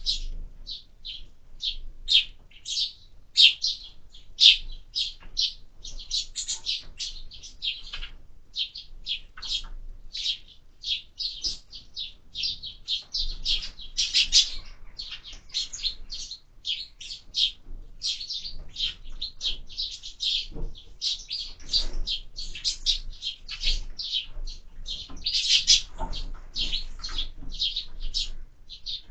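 Sparrows chirping: a steady, busy chatter of short, overlapping chirps, several a second, from a group of birds.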